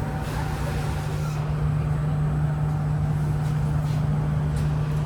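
Steady hum inside a CT251 metro train car standing at a platform: air-conditioning and onboard equipment running, with a constant low tone.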